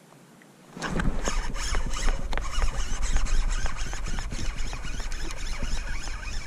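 Fishing reel cranked fast as a bass is reeled in on a jig, a dense rapid clicking and rasping that starts suddenly about a second in, over a low rumble.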